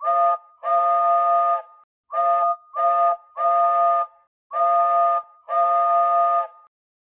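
Flying Scotsman's steam whistle, several notes sounding together as a chord, blown in seven blasts that mix short toots with longer ones.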